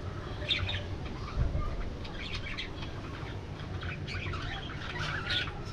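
A flock of budgerigars chirping and chattering continuously, with overlapping short calls, and a low rumble underneath that may be wing flapping or handling noise.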